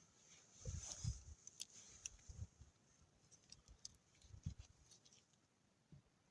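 Faint, sparse handling noises: a few soft low knocks and scattered small sharp clicks.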